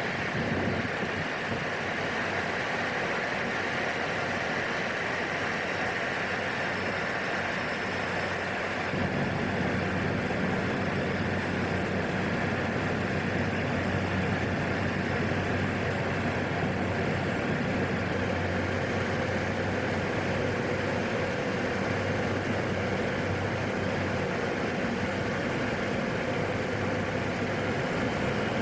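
Steady drone of a PAC 750 single-engine turboprop and its propeller, heard in the cockpit in flight. The low hum deepens about nine seconds in, and more hiss comes in about halfway through.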